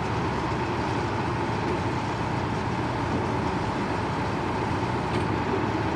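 Heavy machinery running steadily, a continuous engine-like rumble and noise with a faint steady high tone and no distinct hammer blows.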